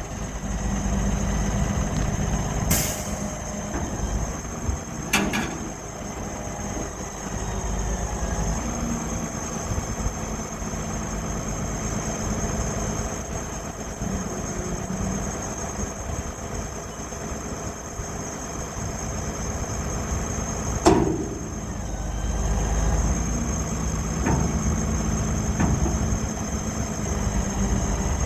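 Freightliner M2 truck engine idling steadily, with a few sharp clicks or knocks over it, the loudest about two-thirds of the way through.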